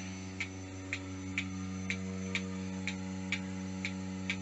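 Milking machine pulsators clicking steadily, about two clicks a second, over the steady hum of the vacuum pump running the milking line.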